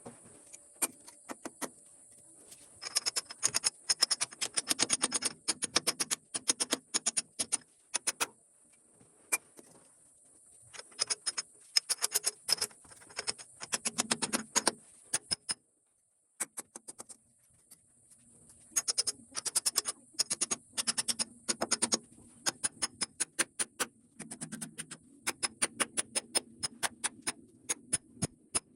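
Rapid sharp taps in bursts of a few seconds, several a second, over a steady high hiss.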